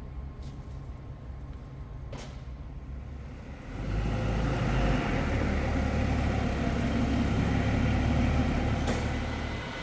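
Oxy-fuel cutting torch cutting through the steel eye of a hydraulic cylinder rod: a steady hiss and rumble comes in loudly about four seconds in, over a low steady hum, and eases just before the end.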